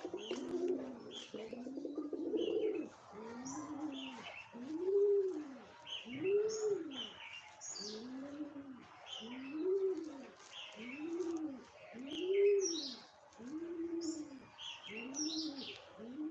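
Dove cooing steadily, one low rising-and-falling coo about every second, with small birds chirping high above it.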